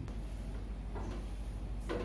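Two soft knocks about a second apart, as of kitchen items being handled and set down, over a steady low hum.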